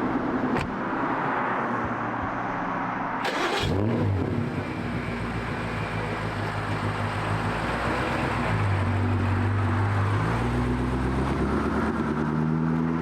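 BMW M5 Competition's twin-turbo V8 running under way, its pitch shifting up and down as the car is driven. About three seconds in there is a short burst of noise, then a quick rise in engine pitch.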